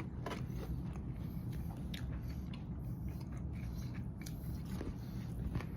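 A person biting into bread and chewing it with their mouth near the microphone, with scattered soft mouth clicks and crunches.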